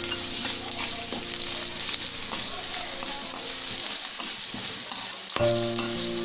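Sliced onions, green chillies and tempering spices sizzling in shallow oil in a steel kadai, stirred and scraped with a metal slotted spoon, with scattered clicks of spoon on pan.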